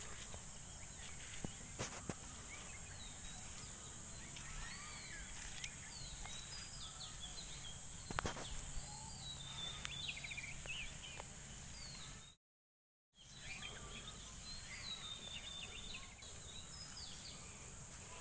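Outdoor rural ambience: small birds chirping over a steady high-pitched insect drone, with a few faint clicks. The sound cuts out completely for under a second about two-thirds of the way through.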